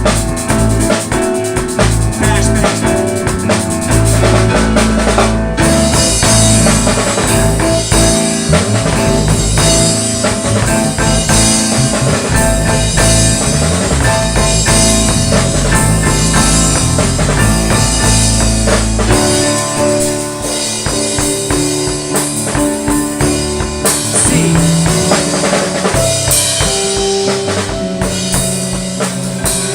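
A band playing a song, with a drum kit and held deep bass notes. Bright cymbal sound comes in about five seconds in, and the deep bass drops back about two-thirds of the way through.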